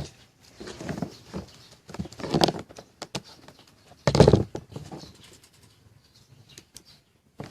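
Irregular clicks, scrapes and knocks of small objects being handled, with a louder scraping knock about four seconds in, then only faint ticks.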